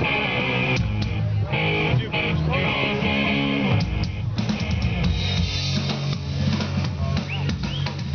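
Live rock band playing with electric guitar, bass and drum kit.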